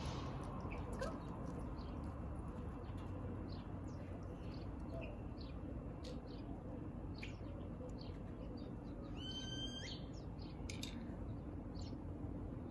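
Small birds chirping: short, high chirps scattered throughout, with one longer pitched call about nine and a half seconds in, over a steady low background hum.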